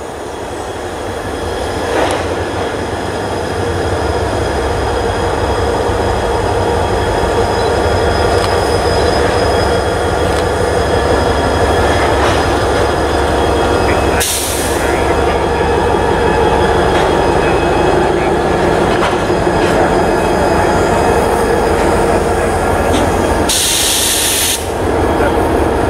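CSX EMD GP40-2 diesel locomotive approaching and passing with a train of covered hopper cars: a steady engine drone over a low rumble of wheels on rail, growing louder over the first few seconds. A short hiss comes about halfway through, and a longer hiss of about a second near the end.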